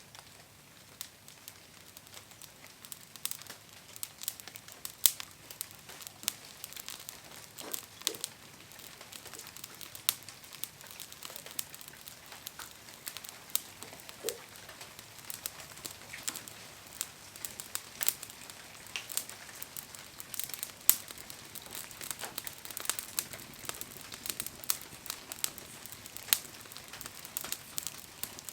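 Wood fire crackling: sharp, irregular pops and snaps over a soft hiss, sparse at first and growing busier after a few seconds.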